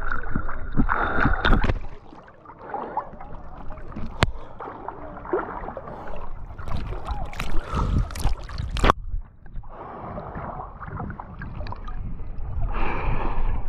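River water gurgling and washing around a whitewater kayak held in a stern stall, over a steady low rumble, with two sharp knocks about four and nine seconds in.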